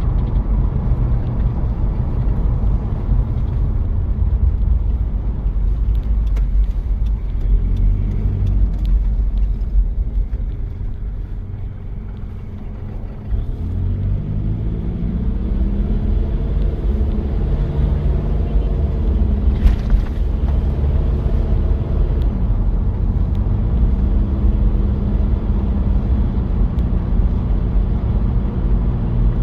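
1993 Toyota Prado's diesel engine pulling on the road, its note rising and falling with the revs. It quietens for a few seconds about ten seconds in, then climbs again in pitch as the vehicle accelerates, with one short sharp click about two-thirds through.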